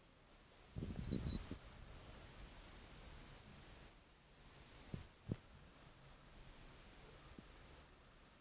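Breath blown through a drinking straw over a budgie's seed dish to clear the husks: a short, faint puff about a second in, then a few light clicks. A thin, high steady tone switches on and off several times.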